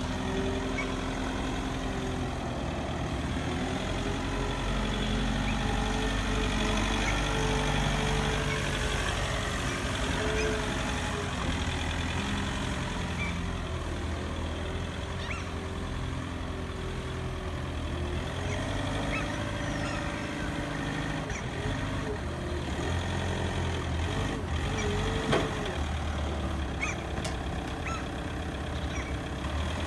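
Truck engine running, its revs rising and falling slowly as it manoeuvres, with a short sharp sound about 25 seconds in.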